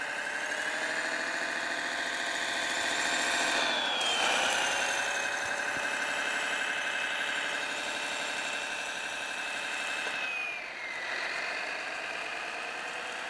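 Servonaut SMX sound module of an RC snowcat playing a simulated engine through a small speaker, thin with almost no bass. It revs up about four seconds in and settles back down a little after ten seconds, with a high whine that rises and falls along with it.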